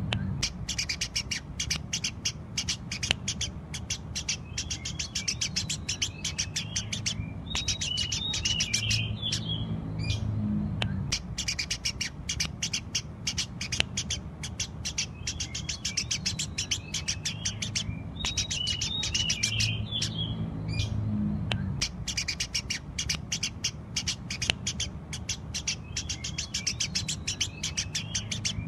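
Eurasian tree sparrow chirping vigorously: rapid, continuous runs of sharp chirps broken by short pauses every few seconds, over a steady low hum.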